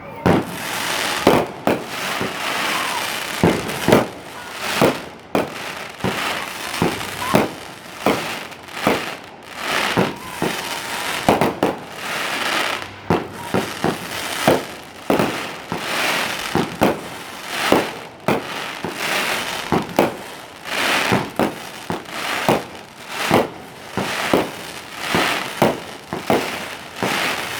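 Fireworks display: a steady barrage of aerial shells bursting, many sharp bangs with crackle and echoing rumble between them, often several in a second.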